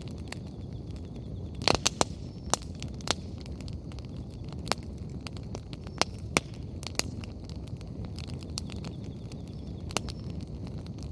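Wood bonfire burning with a steady low rumble and sharp crackling pops from the firewood: a quick cluster of pops near two seconds in, then single pops every second or two.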